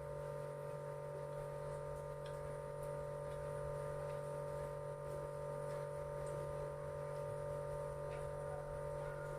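A steady hum made of several constant tones, like an electric appliance or fan running, with a few faint clicks scattered through it.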